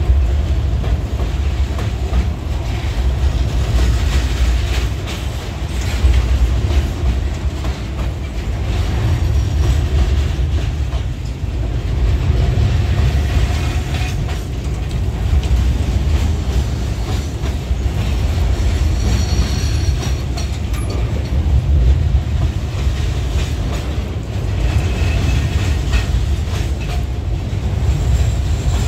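Loaded freight wagons rolling past close by: a steady low rumble of steel wheels on the rails, with repeated clicks of wheels over rail joints. A few brief, faint high wheel squeals come about two-thirds of the way through and again near the end.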